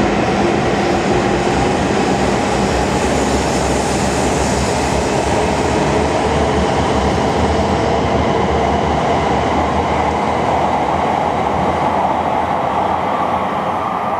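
A Tohoku Shinkansen train running through the station: a loud, steady rush of wheel and air noise with no let-up.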